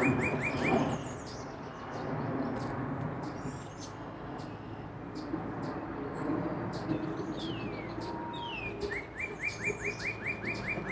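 Male northern cardinal singing: a run of rapid repeated down-slurred whistles at the start and another near the end, with a couple of single slurred notes between.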